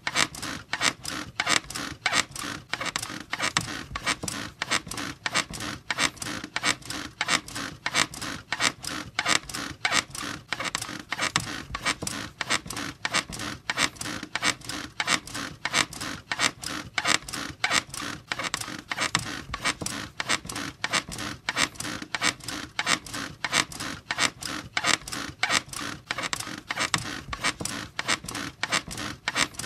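A squeaky bed creaking in a steady rhythm, about three squeaks a second, with no pause.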